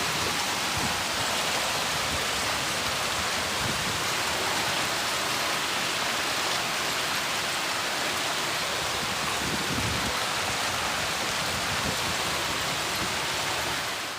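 Heavy storm downpour pelting down: a dense, steady hiss of falling precipitation that starts abruptly.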